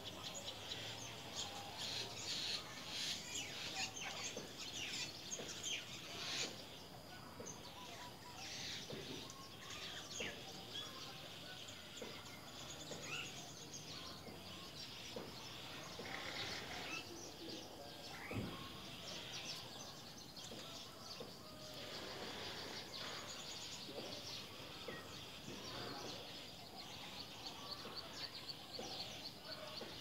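Faint, high bird chirps and twitters, thickest in the first ten seconds and sparser after, over a steady outdoor background hiss with a thin, steady high tone.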